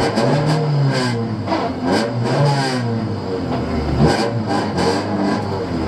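A Honda Civic's 1.3-litre twin-carburettor four-cylinder engine is heard from inside the cabin, pulling hard at full throttle. Its pitch climbs and drops back as the driver changes gear, with loose gravel knocking against the underside of the car.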